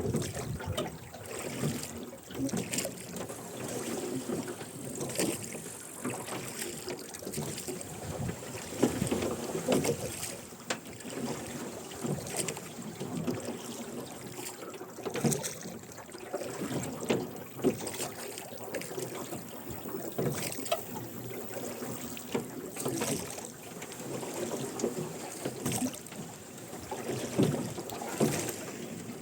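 Rowboat being rowed: the oarlocks creak and the oars splash and knock with each stroke, repeating every two or three seconds.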